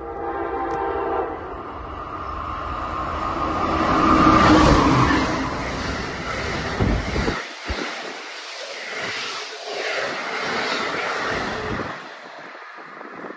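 An Amtrak passenger train of Amfleet coaches runs through the station without stopping, sounding its horn briefly at the start. Then comes the rising rush of wheels on rail, loudest about four seconds in, as the coaches go by. The noise fades near the end as the train draws away.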